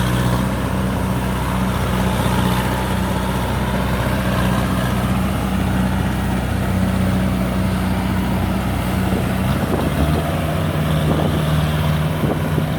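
Rice combine harvester's diesel engine running steadily under load, with a steady hum, its note shifting lower about ten seconds in.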